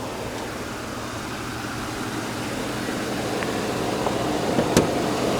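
2010 Ford F-150's 4.6-litre two-valve SOHC V8 idling steadily, growing slightly louder, with a single sharp click near the end. The engine has 170,000 miles on it and still runs smoothly.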